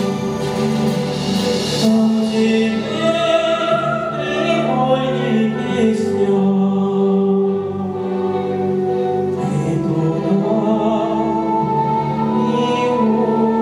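Chamber choir singing long held chords, with solo voice and grand piano accompaniment.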